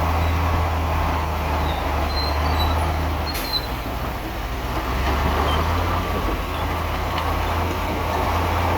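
Bulldozer's heavy diesel engine running steadily with a deep drone, with a few faint high squeaks and a single sharp click about three and a half seconds in.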